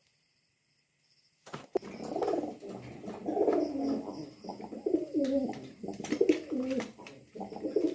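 Pigeon cooing: after a near-silent second and a half, a continuous run of low, wavering coos, with a few sharp clicks among them.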